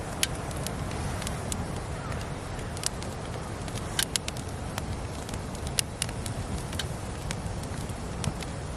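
Wood campfire burning, with irregular sharp crackles and pops over a steady low hiss of the flames.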